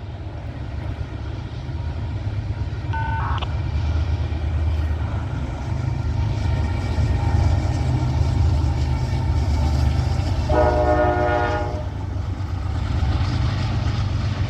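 Freight train rolling by with a steady low rumble. A locomotive horn sounds for just over a second about ten and a half seconds in, and a short higher tone is heard about three seconds in.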